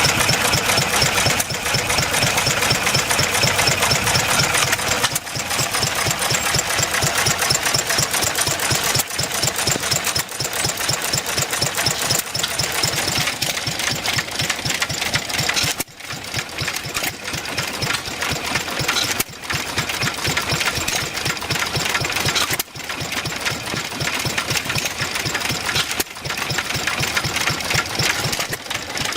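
Several hit-and-miss stationary gasoline engines running together: a dense, rapid mix of popping firing strokes and hissing, the blend shifting every few seconds.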